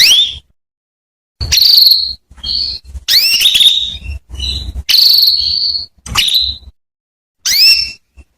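Female domestic canary calling: about eight short calls of sharply rising whistled notes in quick, uneven succession, with silent gaps between them. These are the calls used to prompt male canaries to sing.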